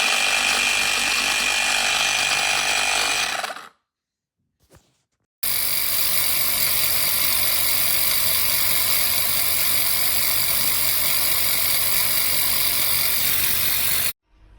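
Small portable electric tyre-inflator compressor running with a steady mechanical rattle. It stops abruptly for about a second and a half, then starts again and runs steadily until it cuts off near the end.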